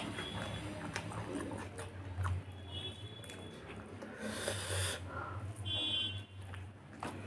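Mouth sounds of someone eating rice and chicken stir-fry by hand: chewing, lip smacks and soft clicks of fingers working the rice. Two short high-pitched chirps come about three and six seconds in, and a brief breathy hiss just past four seconds.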